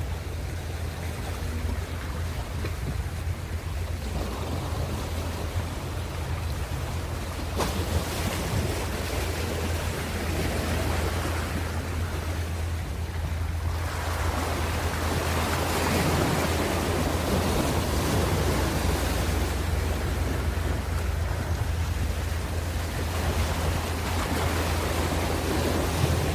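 Ocean surf, with waves washing in and swelling louder about 8 seconds in and again for several seconds from about 14 seconds, over a steady low rumble.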